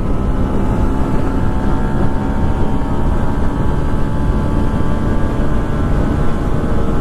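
Yamaha MT-15's 155 cc single-cylinder engine held at high revs under full throttle, its note slowly rising as the bike accelerates past 100 km/h, over heavy wind rush on the microphone.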